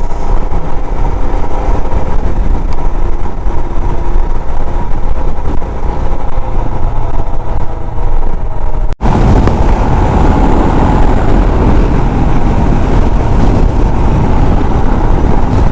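Royal Enfield Himalayan motorcycle riding along the highway, its engine running steadily under loud wind noise. About nine seconds in the sound cuts out for an instant and comes back with more wind rush.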